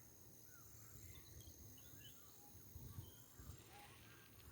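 Faint outdoor ambience: a steady high insect buzz with scattered faint bird chirps.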